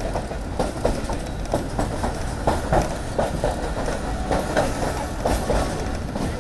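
Pakistan Railways passenger train running on the track, heard from on board: a steady low rumble with a run of wheel clacks over the rail joints.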